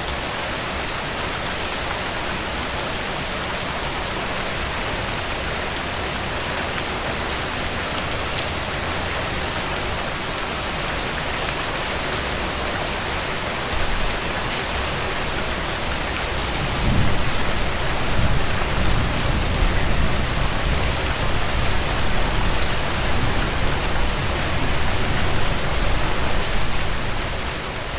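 Steady rain falling on a tent, with single drops tapping sharply. About halfway through, a low rumble of thunder comes in and rolls on until near the end.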